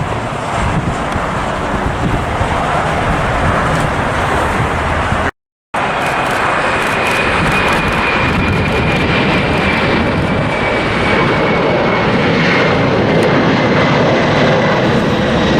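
Boeing 747 freighter's jet engines at takeoff power: a steady loud roar with a high whine that slowly falls in pitch as it departs. The sound cuts out completely for a moment about five seconds in.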